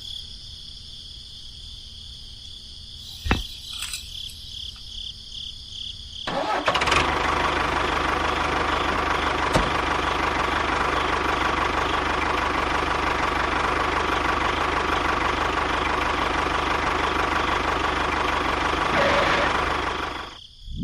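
A mini tractor's motor starts about six seconds in, runs steadily at a constant pitch, and cuts off just before the end. Before it starts there is only a faint low hum and a single click.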